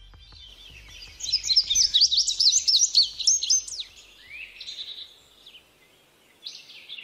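Songbird chirping and singing: a fast, loud run of high sliding notes for about two and a half seconds, then softer scattered calls with a short lull before a few more notes near the end.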